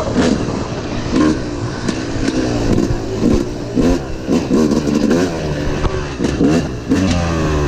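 Dirt bike engine revving up and down over and over as the bike is ridden around a motocross track, with short bursts of noise throughout.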